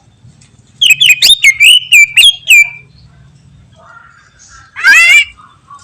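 Cucak ijo (green leafbird) singing: a quick run of about seven loud, sharp notes, each falling in pitch, ending on a short held whistle. Near the end comes one harsh call that rises in pitch.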